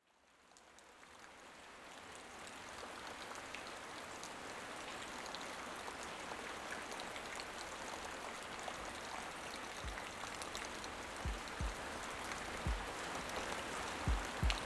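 Steady rain falling, fading in over the first couple of seconds. Several short, low thuds come through in the last few seconds.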